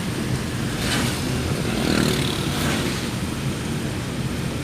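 Steady road noise from a moving vehicle, engine and tyres running, swelling a little about two seconds in.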